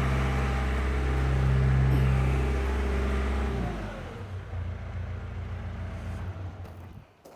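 Skid steer engine running at high throttle while lifting with its forks. About three and a half seconds in it drops to a low idle, then it shuts off near the end.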